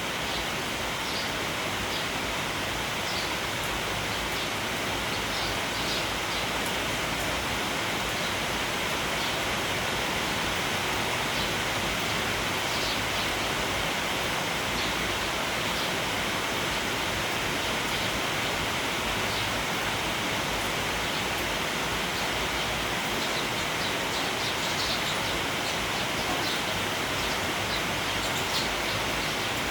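Steady hiss of rain falling, with faint short chirps from a flock of sparrows scattered through it.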